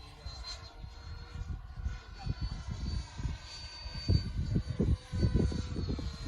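Gusts of wind buffeting the microphone, over the faint high whine of a Freewing F-22 Raptor RC jet's electric ducted fans in flight. The whine rises slightly in pitch midway and eases again near the end.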